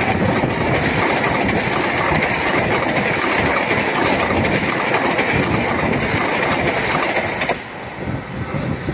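Bima express passenger train's coaches passing close by at speed, a steady loud run of wheels on rails. The noise drops suddenly about seven and a half seconds in as the last coach goes by.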